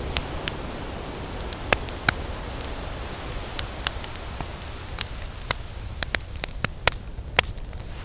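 Campfire crackling: irregular sharp pops and snaps, a few much louder than the rest, over a steady low rush.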